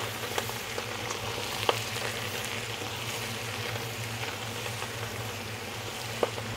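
Shrimp heads and shells sizzling in hot olive oil in a stainless steel pot over high heat as they are sautéed, stirred with a wooden spoon that knocks against the pot a few times.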